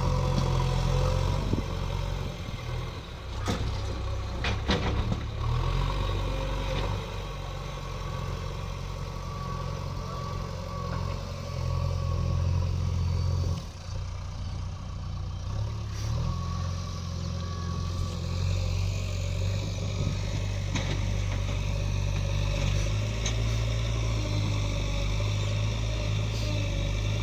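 Diesel engine running steadily, with a few sharp knocks about three to five seconds in and a brief dip in the engine sound about halfway through.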